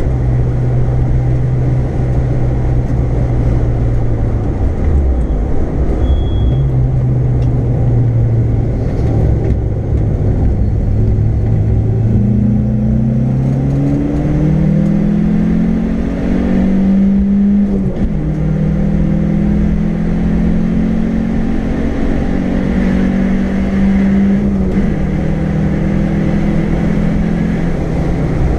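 A car's engine heard from inside the cabin while lapping a race track, over steady road and wind noise. The engine note holds steady, drops briefly about five seconds in, then climbs as the car accelerates. There is a gear change near the middle, and the note then holds at higher revs.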